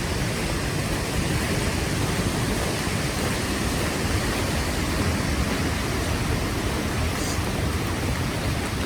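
Steady rush of the creek fed by Tamanawas Falls, an even roar of fast-flowing water.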